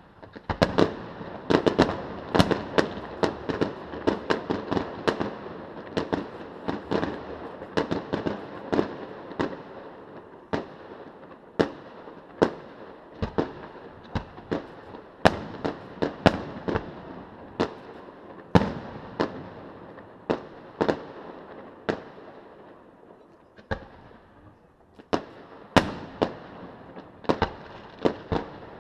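Aerial fireworks display: a long run of sharp bangs from bursting shells, packed close together in the first several seconds, then more spaced out, with a short lull about three quarters of the way through before the bangs pick up again.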